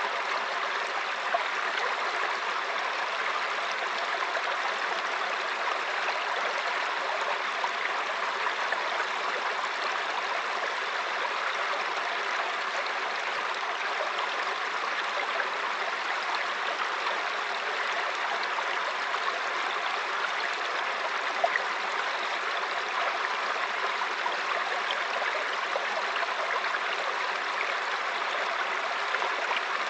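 Mountain stream flowing over rocks: a steady rush of water with small splashes and gurgles.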